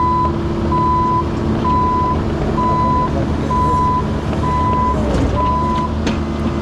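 Excavator's diesel engine running with its travel alarm beeping about once a second. The beeping stops near the end, and a couple of knocks come with it.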